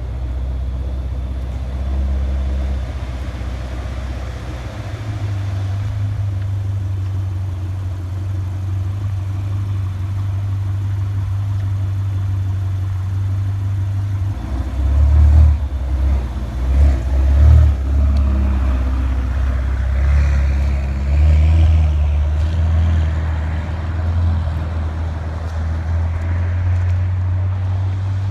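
Car engine idling with a steady low rumble, blipped a few times in quick succession about halfway through and again a little later.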